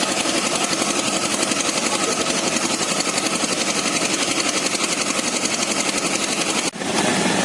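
A small engine running steadily with a rapid, even chugging pulse. It cuts out for an instant near the end, then carries on.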